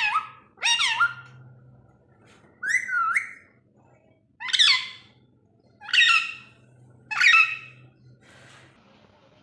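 Ringneck parakeet giving six short, loud calls, each a bending note with a whistle-like quality, spaced about a second or two apart.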